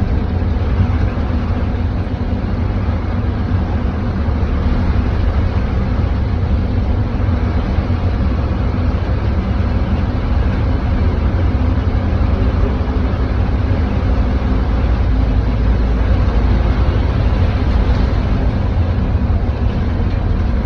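Bus engine running steadily while driving, a constant low rumble under a steady hiss of rain and road noise.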